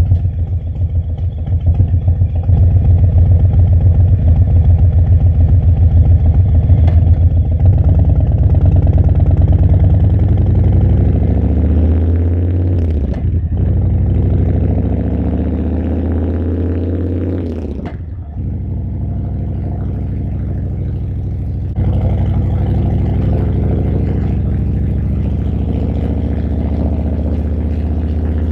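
Harley-Davidson V-twin engine pulling under way: its pitch climbs through a gear, drops briefly at a shift about 13 seconds in, climbs again, and shifts once more about 18 seconds in. After that it settles to a steady cruise.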